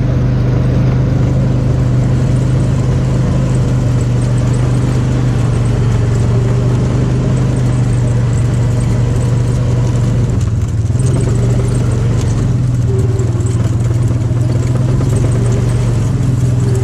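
Farm vehicle's engine running steadily at an even speed while being driven, a constant low hum with no change in pitch.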